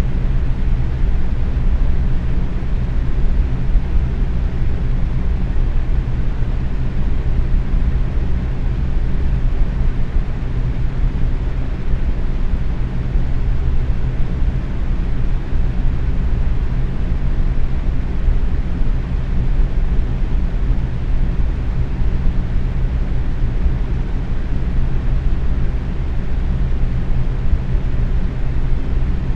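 Box fan running steadily at medium speed: an even rush of moving air, heaviest in the low end, with a faint steady hum under it.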